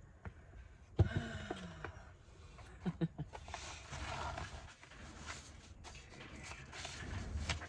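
Sheet of paper being handled and slid on a table, rustling, with a knock about a second in followed by a short low sound falling in pitch, and a few clicks near the middle.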